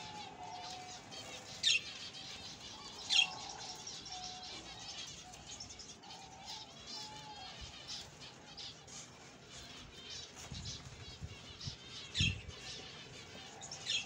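Small birds chirping and twittering continually, with a few loud, sharp calls that sweep downward in pitch, about two and three seconds in and twice near the end.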